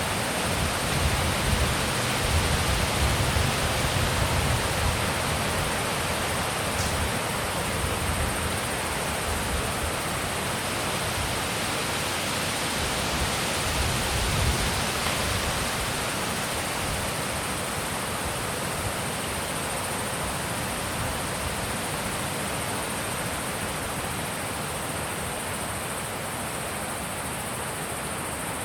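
Wind blowing in a steady, even rush. Low rumbling gusts buffet the microphone for the first few seconds, then the rush settles and eases slightly.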